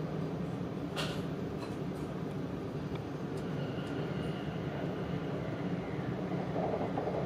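Inside the upper-deck cabin of an E4 series Max double-decker Shinkansen, the train's steady running rumble, with a few sharp clicks, the loudest about a second in.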